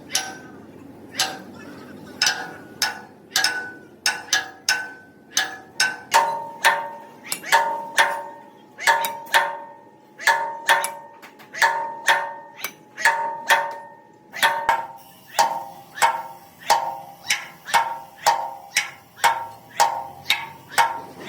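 Hammer blows on metal, each strike ringing with a clear tone. Slow and uneven at first, then a steady rhythm of about two blows a second.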